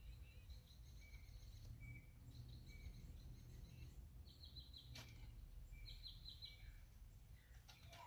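Faint outdoor ambience: small birds chirping in short, repeated high notes over a low, steady rumble, with a single sharp click about five seconds in.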